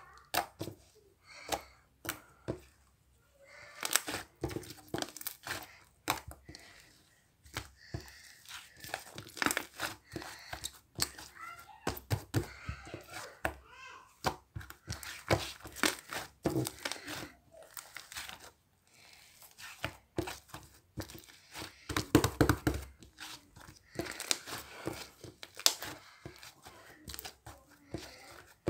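Slime being squished and stretched by hand, making irregular sticky clicks, pops and crackles.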